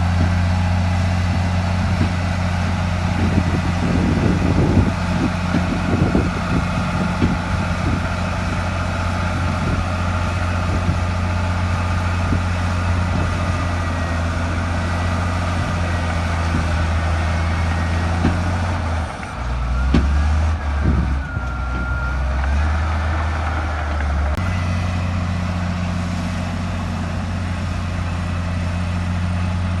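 Bulldozer's heavy diesel engine running steadily, with a series of metallic knocks and clanks in the first third. After about two-thirds of the way through, the engine note drops lower for a few seconds as it works under load, then returns to its steady pitch.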